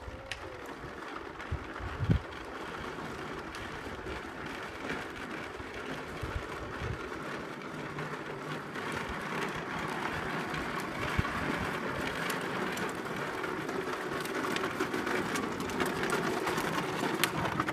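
A child's ride-on tractor rolling along a road with a steady rattling of its wheels and drive, scattered clicks and knocks, growing louder and stopping suddenly at the end.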